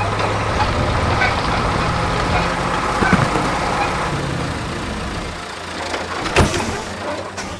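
Heavy diesel engine of a truck or earthmoving machine running steadily, easing off after about four seconds, with a sharp knock near the end.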